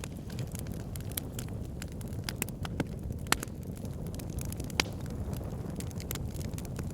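Logs burning in a fireplace: a steady low rumble of flames under frequent sharp crackles and pops of the wood, with two louder pops a little over three seconds and nearly five seconds in.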